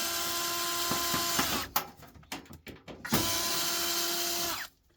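Cordless power drill-driver running in two bursts of about a second and a half each, backing screws out of an old CD changer's casing; each run holds a steady pitch and drops off as the trigger is let go.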